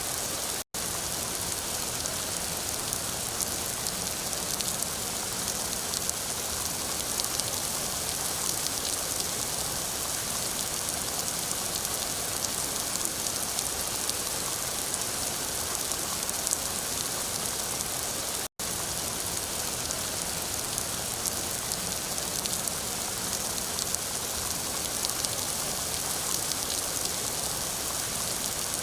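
Steady heavy rain falling, a constant hiss with many individual drops pattering. The sound cuts out for an instant twice, about a second in and again past the middle.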